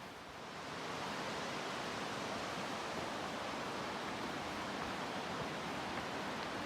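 Rushing water of the Similkameen River, a steady even hiss that swells up within the first second and then holds level.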